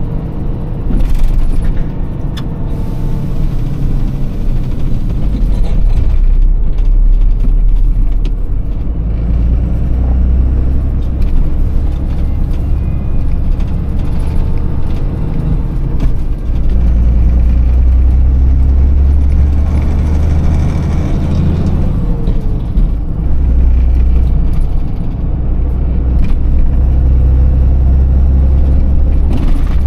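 Iveco Tector truck's six-cylinder diesel engine running while driven in town, heard on board. The low engine note strengthens and falls back several times, with short dips about halfway through and again a few seconds later, as the manual gearbox is worked.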